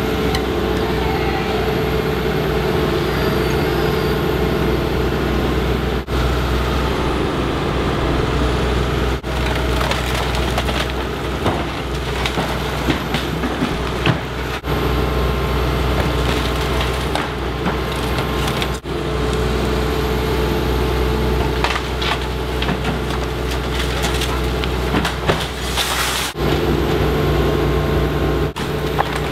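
A demolition machine's diesel engine runs steadily as the prefab bungalow is torn down, with timber and panels cracking and splintering, most in the middle and again near the end. The sound breaks off abruptly several times.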